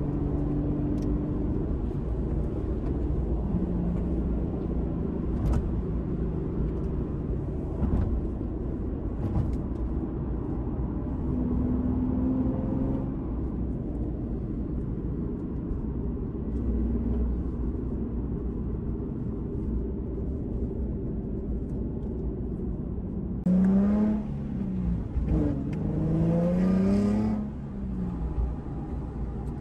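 Nissan Fairlady Z Z34's 3.7-litre V6 running through an aftermarket HKS exhaust, its note shifting in pitch now and then. Near the end it is revved up and back down twice, the loudest part.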